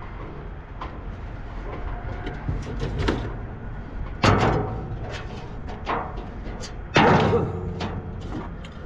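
Scattered knocks and clicks, with two louder thumps, one about four seconds in and another about seven seconds in.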